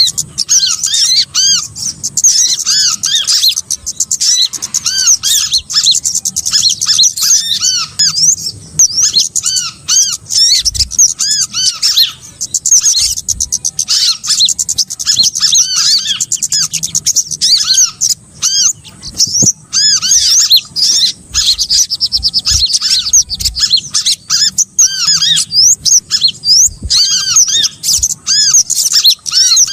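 A dense chorus of small songbirds: rapid, overlapping high chirps and squeaks, with no let-up. It is an Indonesian bird-trapping lure recording (suara pikat) for small birds.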